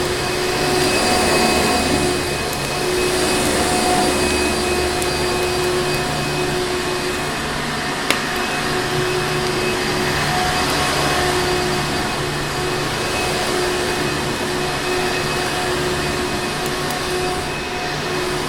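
Vacuum cleaner motor running steadily: a dense rushing hiss with a constant whine. There is a single sharp click about eight seconds in.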